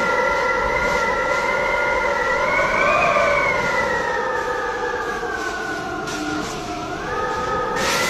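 Strong wind howling, whistling in several tones at once over a steady rushing noise; the pitch rises as a gust builds about three seconds in and sinks as it eases near the end.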